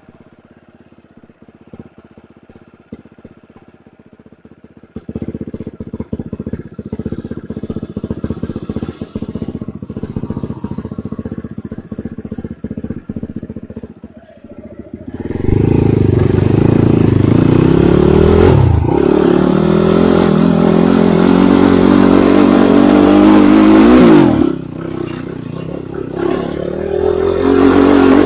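Enduro motorcycle engine: first running quietly at low revs, then about halfway through going loud under throttle, its pitch rising and falling as the revs change, easing off briefly near the end and picking up again.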